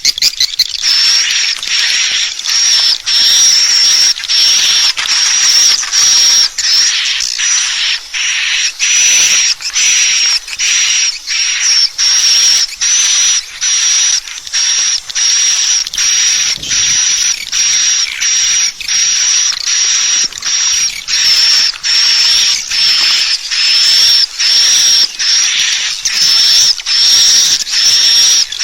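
Swiftlet calls played as a lure sound: a loud, non-stop series of short, buzzy, high chirps, about three every two seconds.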